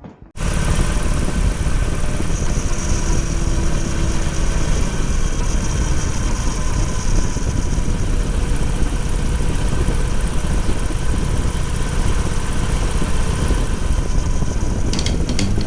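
Harley-Davidson Sportster 883's V-twin engine running under way, heavy wind rush over the microphone mixed in with it. The sound cuts in suddenly about half a second in, and a few sharp ticks come near the end.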